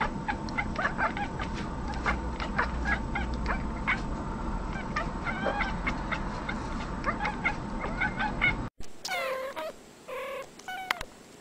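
Cat chattering at birds through a window: rapid short chirps and clicks over a steady background hiss. After a sudden cut about three quarters of the way in, two cats trade a few short downward-gliding meows.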